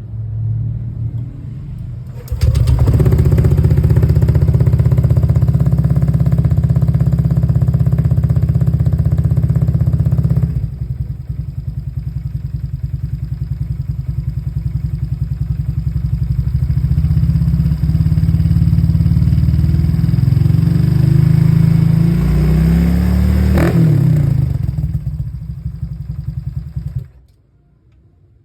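Honda Vario scooter's engine running through an aftermarket racing exhaust with a steady, rapid firing beat. It gets abruptly louder about two seconds in and steps down about ten seconds in. A quick rev rises and falls near the end, then the sound drops away.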